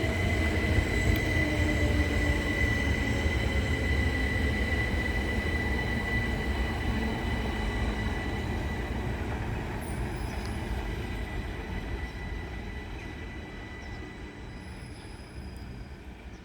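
Class 375 Electrostar electric multiple unit running away from the listener: a low wheel-and-track rumble with a steady high whine, both fading as the train recedes. A tone falls in pitch in the first few seconds as it moves off.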